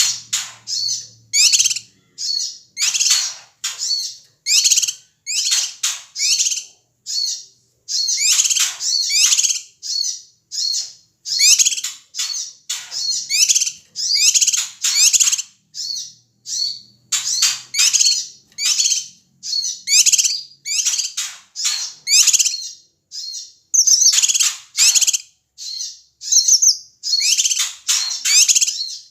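Cucak kinoi calling excitedly and noisily: a long unbroken run of short, harsh chattering call bursts, about one to two a second, high-pitched.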